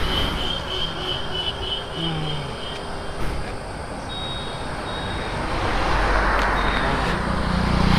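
Motor vehicle engines and road noise, with a thin high steady whine for the first few seconds and the engine rumble growing louder in the second half.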